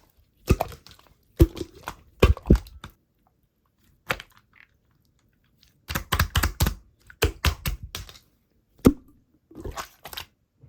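Crisp crunching and biting in short clusters of sharp crackles, with quiet pauses between.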